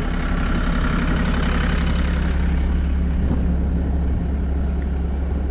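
Diesel engine of a Bobcat E50 mini excavator idling steadily as it warms up in the cold.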